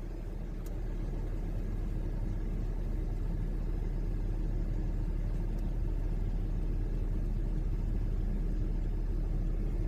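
Tack truck (asphalt distributor) engine running with a steady low rumble, a little louder after about a second.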